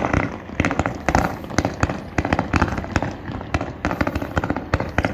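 Aerial fireworks display: shells bursting with many sharp bangs, several in quick clusters.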